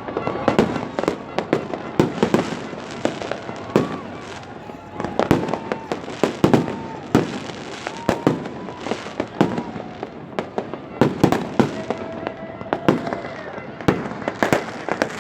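Fireworks display: many sharp bangs and booms in quick, irregular succession, with faint short whistling tones among them.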